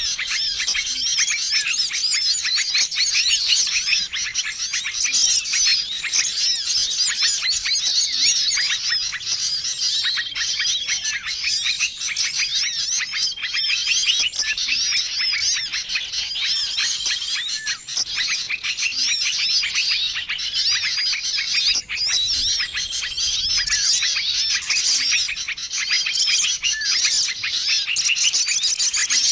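Bird-lure recording of many small birds calling at once: a dense, busy chorus of high chirps and twitters, with a short level whistle note coming back every few seconds.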